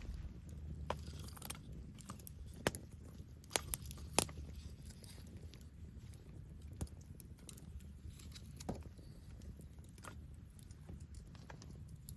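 Wood campfire crackling, with irregular sharp pops and a cluster of louder ones a few seconds in, over a low steady rumble.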